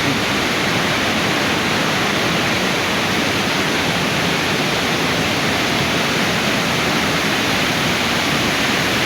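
Tad Khamuet waterfall: a steady, unbroken rush of falling water.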